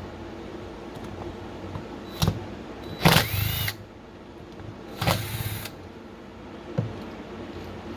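Cordless impact driver run in short bursts while working screws out of a chainsaw: a quick blip, then two bursts of well under a second each, with a light click near the end.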